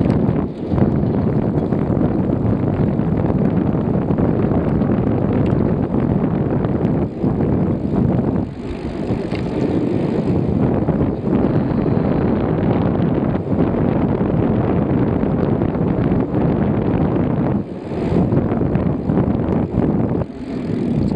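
Wind rushing over the microphone of a moving bicycle: a loud, steady low rumble with a few brief dips.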